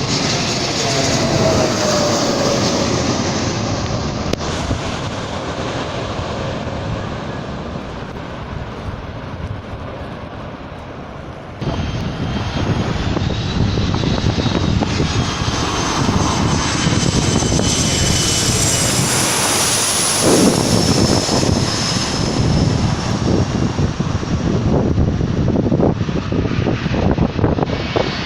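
Airliner engines as an aircraft on landing approach flies low overhead, with high whining tones and a pitch that drops as it passes, about twenty seconds in. The sound jumps abruptly louder about eleven and a half seconds in.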